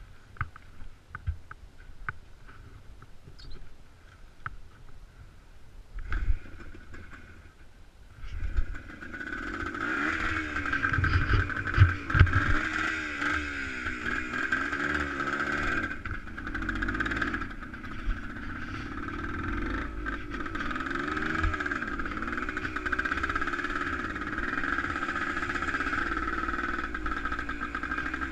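Scattered clicks and knocks, then about a third of the way in an engine starts running, its pitch wavering up and down as it revs.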